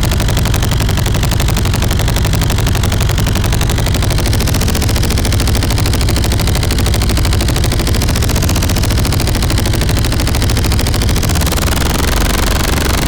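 Synthesized motorcycle engine made with hardware effects: an analog LFO pulse pushed through a ring modulator, heavy drive and a resonant analog filter, then reverb. It plays as a loud, steady, fast train of clicking pulses with a heavy low end, like an engine running.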